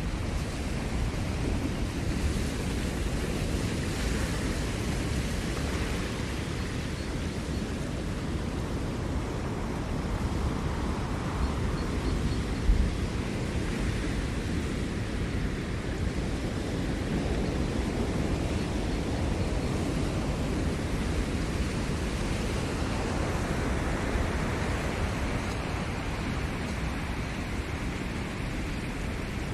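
Ocean surf on a Maui shoreline, waves washing in and out in slow swells of steady rushing noise, with a low rumble and one brief thump near the middle. Faint short bird chirps sound now and then above the surf.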